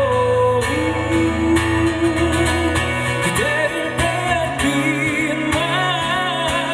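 Live band playing a pop-rock song with guitar, a held, wavering melody line over it.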